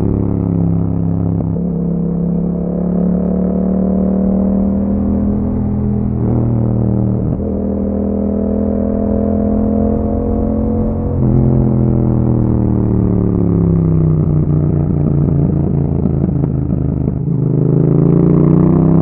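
Yamaha MT-07's 689 cc parallel-twin engine running through an Akrapovic exhaust while riding. The pitch climbs and drops back at gear changes in the first half, falls steadily as the bike slows, then rises and gets louder again near the end under acceleration.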